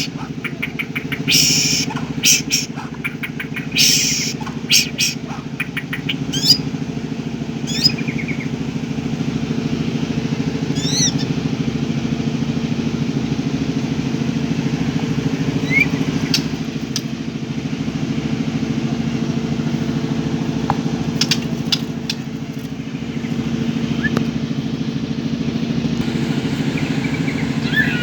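White-rumped shama calling over a steady low engine drone: rapid bursts of sharp chirps in the first few seconds, then short scattered calls and whistles. The engine runs evenly with a fast pulse and is the loudest sound throughout.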